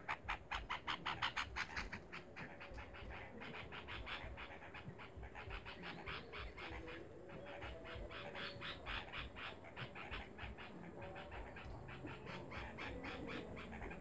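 Bird chirping in a rapid, even run of short, sharp notes, several a second. The notes are most distinct in the first couple of seconds and go on more densely and faintly after that.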